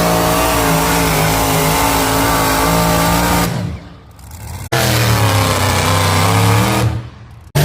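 Pulling tractor engine held at full throttle under load. It fades about three and a half seconds in, then cuts back in abruptly at a lower pitch and fades again near the end.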